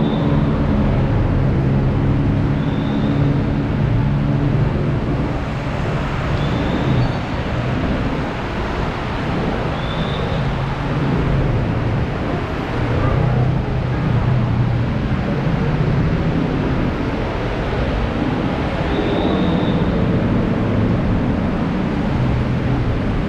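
Heavy rain falling steadily, with the low hum of a vehicle engine swelling and fading under it. Short high chirps come every few seconds.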